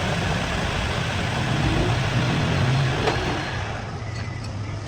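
A motor vehicle's engine running with a steady rumble that swells a little partway through, then eases off near the end.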